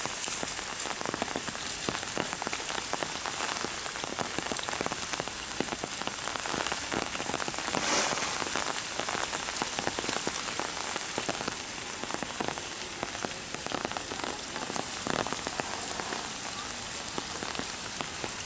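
Heavy rain falling steadily, a dense patter of countless drops, swelling briefly louder about eight seconds in.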